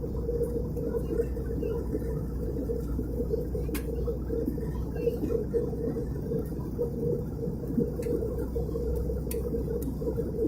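Steady low drone of an Airbus A320's engines and airflow, heard inside the passenger cabin in flight, with a few faint clicks.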